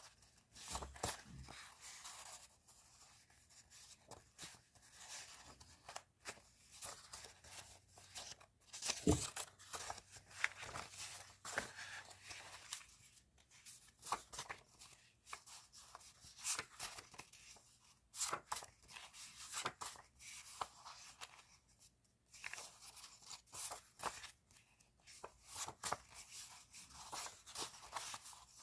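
Stationery and its plastic and paper packaging being handled, with irregular rustling, crinkling and short tearing sounds.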